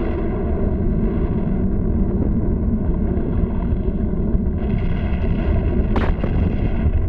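Cartoon sound effect of an erupting volcano: a continuous heavy rumble, with one sharp crack about six seconds in.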